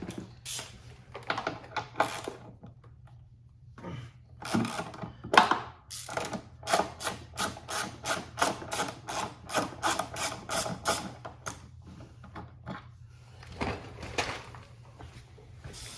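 Hand ratchet wrench clicking as fasteners are undone, with a few scattered knocks and scrapes; through the middle the clicks run evenly at about three a second.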